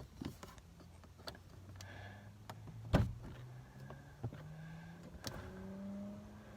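Car power window motor humming with a rising pitch, mixed with several knocks and one loud thump about three seconds in.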